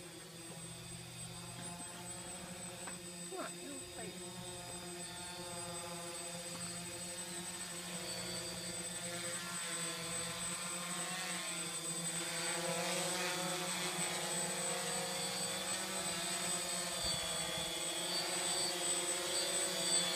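Quadcopter drone descending to land, its propellers and motors making a buzzing whine that grows steadily louder as it comes closer, the pitch wavering as the motors adjust speed.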